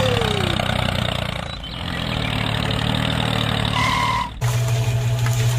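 Engine running steadily, its sound dipping briefly about a second and a half in. A short beep-like tone comes about four seconds in, and then the sound changes abruptly to a steadier low hum.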